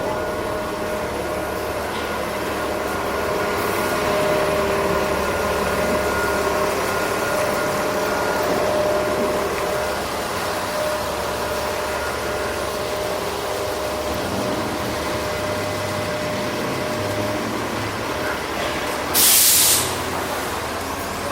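City bus running, heard from inside: a steady engine rumble and road noise with a faint steady whine. About nineteen seconds in comes a short loud hiss of air, the bus's air brakes or pneumatics venting.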